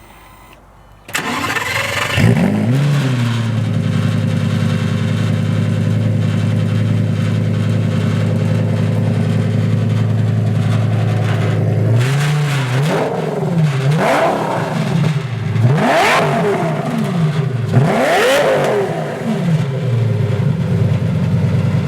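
Lamborghini Gallardo's V10 engine starting about a second in, breathing through giant five-foot cone-shaped exhaust tips: it flares up, settles to a steady, extremely loud idle, then is revved several times, each rev rising and dropping back to idle.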